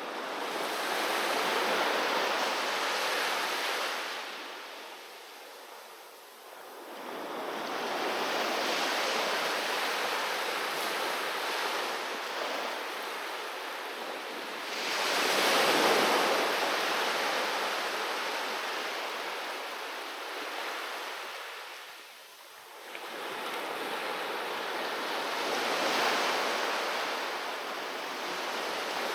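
Sea waves breaking and washing up on a beach, each surge swelling and fading over several seconds, the loudest about halfway through.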